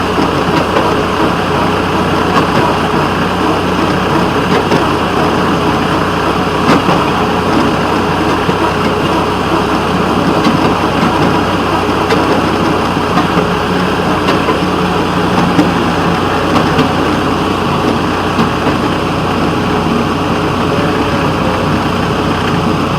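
Locomotive 6634's engine running steadily as the train moves along, with a few sharp clicks now and then.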